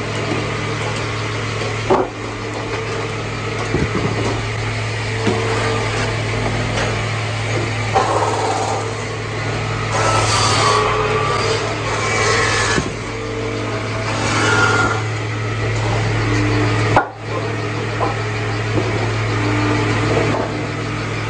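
Sawmill machinery running with a steady low hum, and a few sharp knocks.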